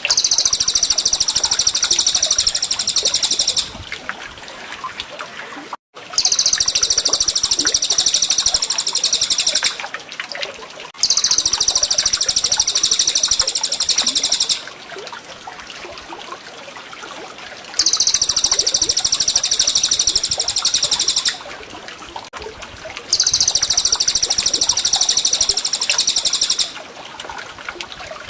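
A songbird's long, very high, rapid rolling trill, repeated five times in phrases of about three and a half seconds with short pauses between. It is a bird-master recording of cililin and cucak jenggot song, layered over steady trickling water.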